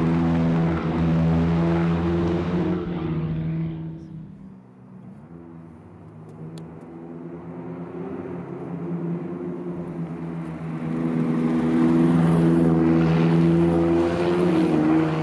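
McLaren Sports Series supercars' 3.8-litre twin-turbo V8 engines as the cars drive past: one engine, loud and steady in pitch, fades away over the first four seconds, then the next car's engine grows louder from about six seconds in and is loudest near the end as it goes by.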